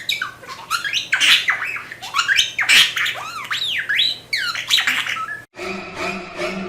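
Parrot squawking and screeching in a rapid string of loud, harsh calls that swoop up and down in pitch. About five and a half seconds in it cuts off and music with held notes begins.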